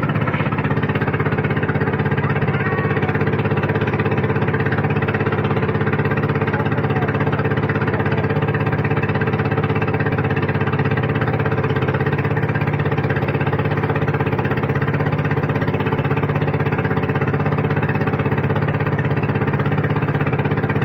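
An engine running steadily at an unchanging speed, a loud, even drone.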